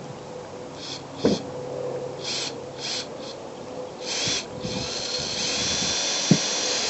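Power drill driving screws through a thin aluminium roof patch: several short trigger bursts, then a steady run of about two and a half seconds as a screw is driven in. A few sharp knocks come through, the loudest about a second in and near the end.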